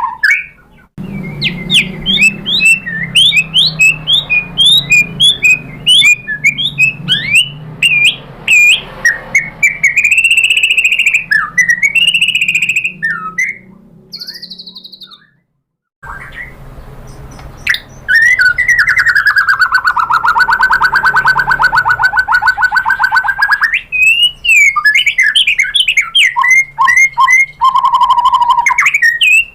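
White-rumped shama (murai batu) singing: fast runs of sharp whistled notes, broken off by a short silence about halfway through, then a long trilled note of about five seconds followed by more quick notes.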